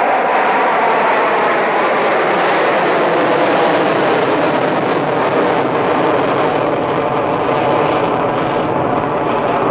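Loud, steady jet noise from an F-16C fighter's Pratt & Whitney F100 turbofan as the jet flies its display. The high hiss thins out about six or seven seconds in, as the jet moves away.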